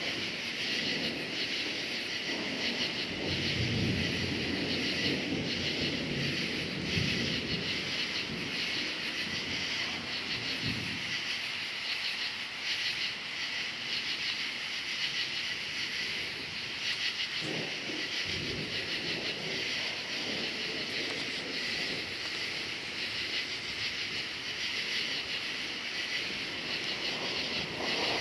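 Crickets chirping steadily with a dense, even trill. Thunder rumbles low under it: one long rumble starts about two seconds in and lasts around nine seconds, and a shorter one comes about two-thirds of the way through.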